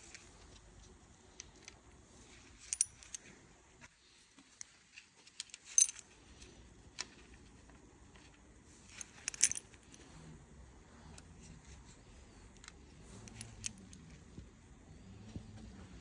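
Scattered metallic clinks and taps of hand tools and engine parts being handled during timing-chain work, loudest a little under six seconds in and again around nine and a half seconds.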